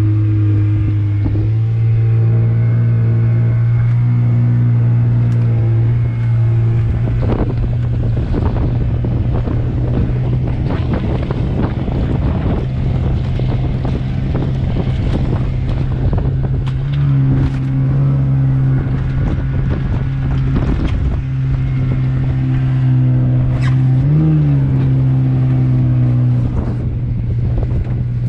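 Boat's outboard motor running steadily under way, with a brief rise and fall in engine pitch a little before the end. Wind buffets the microphone and water splashes against the hull.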